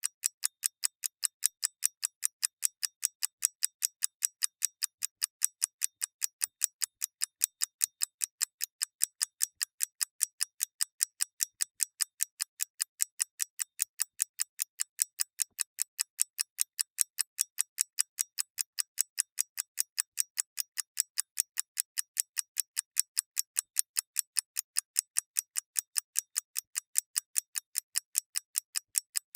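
Clockwork mechanism ticking fast and evenly, about five light, sharp ticks a second.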